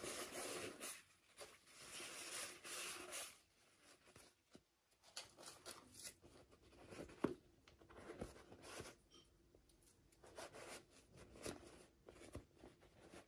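Toy packaging being opened by hand: faint rustling and tearing for the first three seconds or so, then scattered small clicks and taps.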